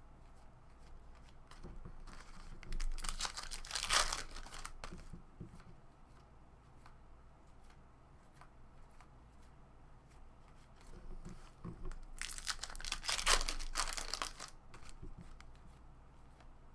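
Baseball card pack wrappers being torn open, two crinkling rips of a second or two each, with light ticks of cards being handled between them.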